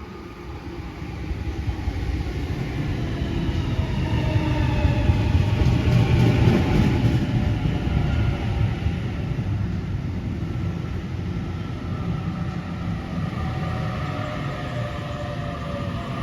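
A train passing close by: a low rumble that builds over the first few seconds and is loudest about six seconds in, then runs on steadily, with whining tones that slide up and down in pitch.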